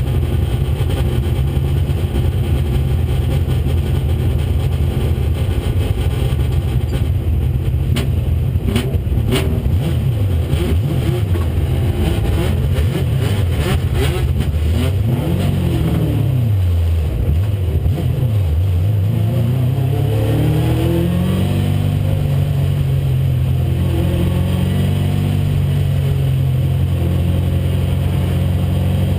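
1996 Ford Mustang race car engine running hard on track, its pitch falling and rising as it slows and accelerates, with a long climb near the end. A few sharp clicks sound about eight to ten seconds in.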